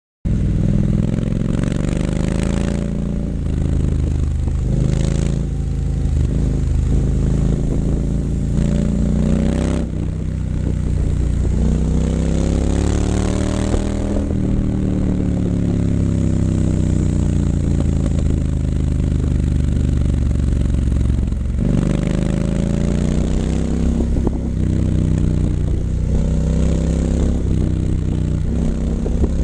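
A 2019 Triumph Scrambler 900's parallel-twin running through an H-pipe and Vance & Hines exhaust while being ridden. The engine pitch climbs and drops back through several gear changes, rises in one long pull to about halfway, eases off, then climbs again near the end.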